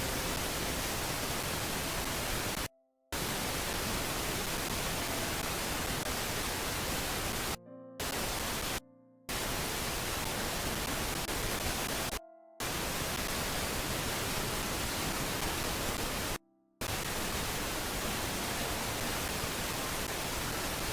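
Steady rushing hiss with no pitch, like wind or static on a nest camera's microphone. It cuts out abruptly to near silence five times for a fraction of a second each, then resumes at the same level.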